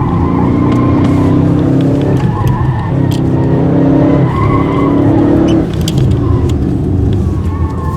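Audi RS6's twin-turbo V8 under hard acceleration, heard from inside the cabin; the engine note breaks and resumes several times as it shifts through the gears.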